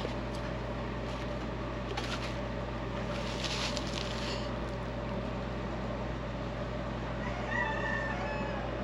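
Steady low electrical hum with light rustling, and a short high-pitched call-like cry near the end.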